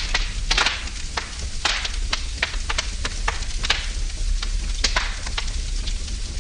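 Wood fire burning in a fireplace, with irregular sharp crackles and pops over a steady hiss.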